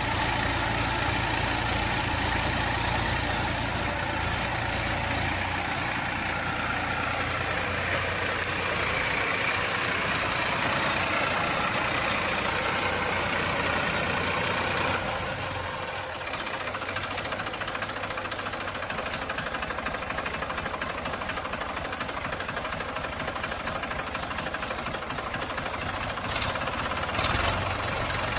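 Tractor's diesel engine running continuously, working to get free of deep mud. Its sound shifts about 5 seconds in and drops a little about halfway through as the revs and load change. There are a couple of brief louder knocks near the end.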